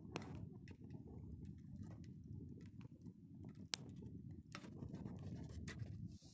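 Wood campfire crackling, irregular sharp pops and snaps over a low steady rumble.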